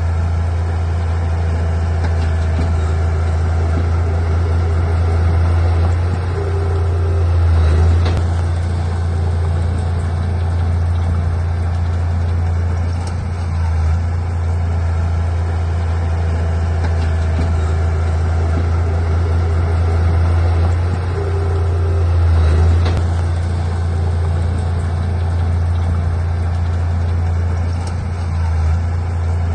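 Heavy diesel engine of earthmoving equipment running steadily with a deep hum, swelling briefly in loudness twice, about a quarter of the way in and again about three quarters of the way in.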